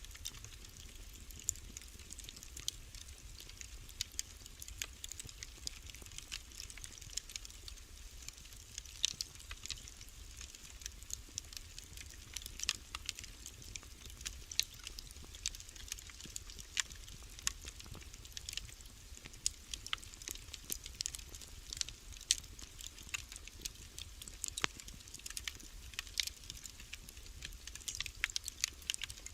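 Wood fire in a fireplace crackling, with irregular sharp pops and snaps several times a second over a steady low rumble of burning.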